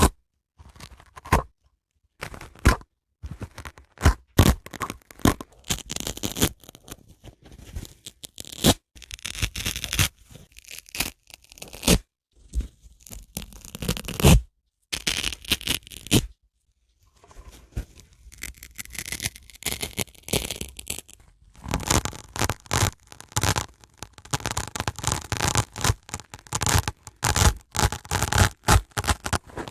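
Dry sponge handled close to the microphone, squeezed, scratched and torn, giving irregular clusters of short crisp snaps and scrapes. There are a couple of longer hissing rubs, and from about two-thirds of the way through comes a dense run of rapid crisp clicks.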